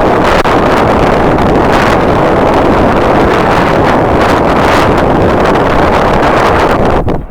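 Strong wind buffeting the microphone: a loud, steady rush, with a brief drop right at the end.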